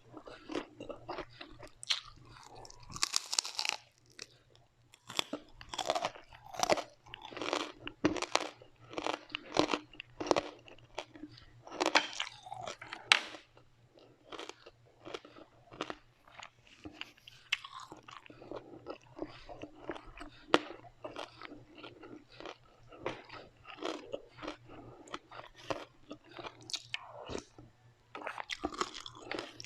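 Close-up eating sounds: crunchy food being bitten and chewed, with rapid, irregular crisp crunches and short pauses.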